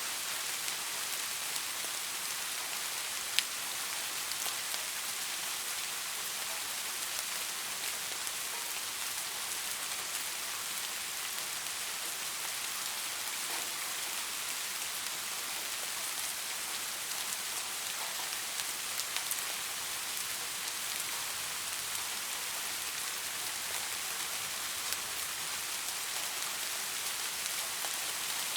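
Steady light rain falling, an even hiss, with occasional single drops ticking close by; the sharpest tick comes about three seconds in.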